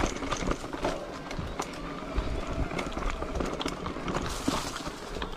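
Irregular crunching, clicking and rattling of movement over a rough dirt trail, with low wind rumble on the microphone.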